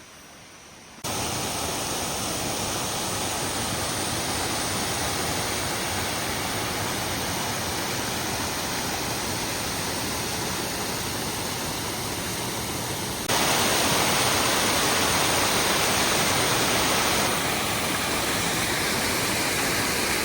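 A valley stream rushing over rocks: a steady, even sound of running water. Its loudness steps up suddenly about a second in and again about two-thirds of the way through, then eases slightly.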